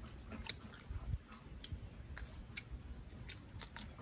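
Eating sounds: chewing and crunching of food, with scattered short, irregular clicks. Some of the crunching is crisp raw cucumber being bitten.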